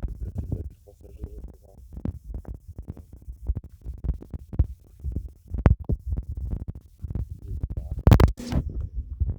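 Rumbling, scratchy handling noise on the built-in microphone of a handheld camera, with irregular low thumps throughout and a sharper rustle about eight seconds in.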